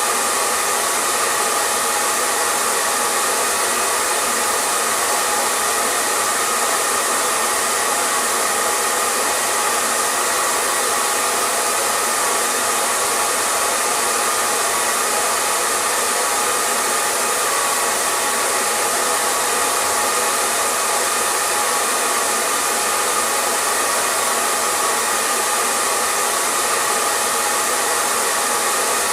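Electric hair dryer running continuously at one setting: a steady rush of blown air with a faint whine from the fan motor, with no change in level or pitch.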